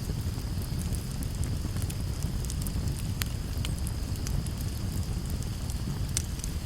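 Campfire burning with a steady low rumble and scattered sharp crackles and pops from the burning wood, the loudest about three seconds in and near the end.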